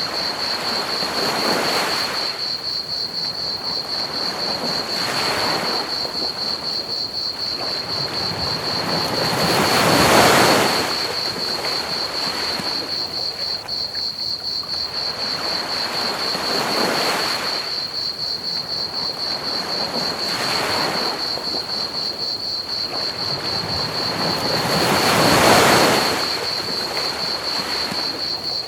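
Ocean waves washing onto a beach in slow surges every few seconds, the biggest about a third of the way in and near the end. Under them a steady chorus of crickets chirps in one high, fast-pulsing tone, over an even hiss of pink noise.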